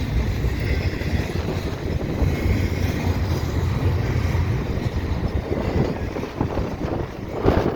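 Double-stack intermodal freight cars rolling past, a steady rumble of wheels on rail mixed with heavy wind buffeting the microphone.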